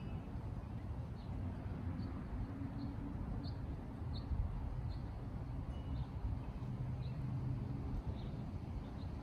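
A bird repeating a short high chirp about once a second over a low steady rumble.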